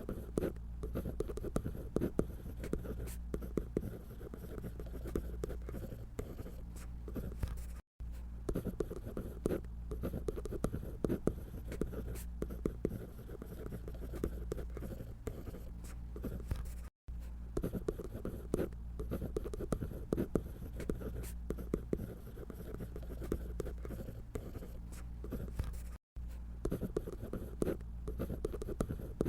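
A drawing tool scratching on paper in quick, irregular strokes, the crisp 사각사각 sound of drawing. The sound cuts out for an instant three times.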